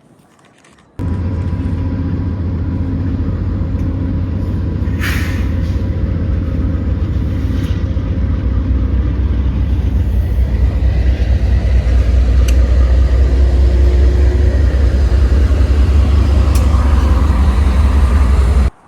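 Diesel freight or passenger train running close by: a loud, steady low engine drone with a few short clicks and squeals, starting abruptly about a second in and cutting off just before the end.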